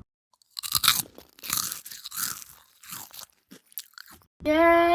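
A person chewing crunchy food close to the microphone: a run of irregular crunching bites. Near the end a voice starts one long held note.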